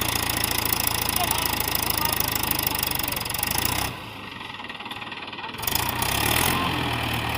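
Mahindra 415 DI tractor's diesel engine running steadily. A little past the middle the sound drops away for about a second and a half, then the engine is heard again.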